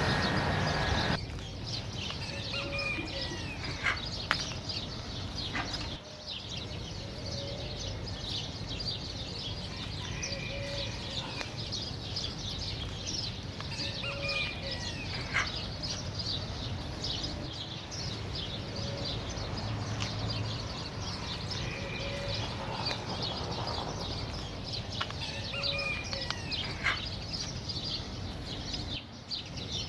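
A chorus of many small birds chirping continuously, with short high twitters crowding together and a soft low call repeating every second or two.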